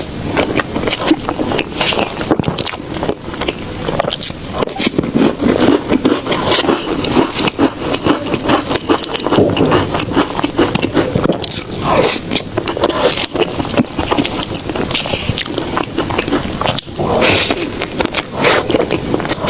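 Close-miked eating of soft desserts: continuous chewing with a dense stream of small clicks and crackles.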